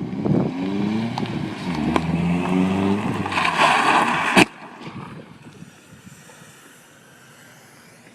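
Car engine revving, its pitch rising and falling for about three seconds. A loud rush of noise follows, ending in one sharp bang about four and a half seconds in, after which the sound drops away to a faint background.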